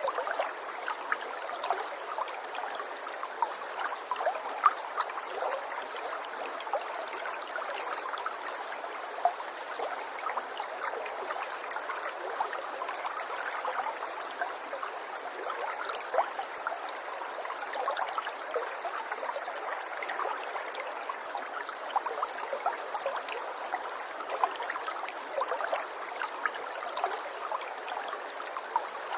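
Running water babbling steadily, full of small splashes and gurgles.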